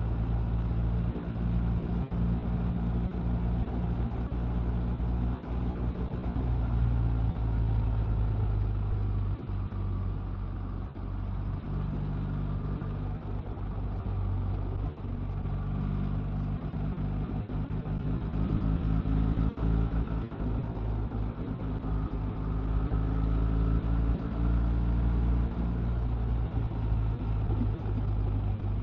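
Motorcycle engine running under way, with wind and road noise; the engine note rises and falls as the bike changes speed.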